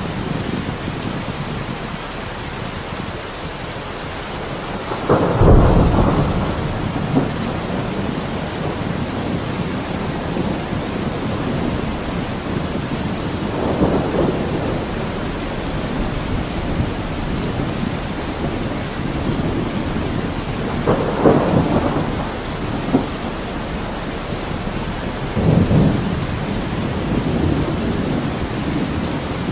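Thunderstorm: steady rain with four rolls of thunder. The loudest and deepest comes about five seconds in, and the others follow at intervals of several seconds.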